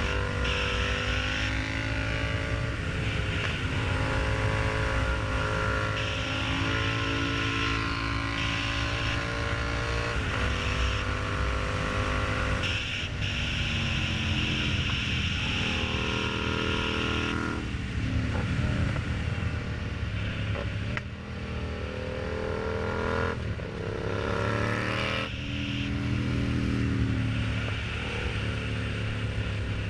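Yamaha MT-07's parallel-twin engine running through an aftermarket exhaust while riding. It pulls up through the gears, its pitch climbing and then dropping back at each shift several times, with easing-off stretches in between.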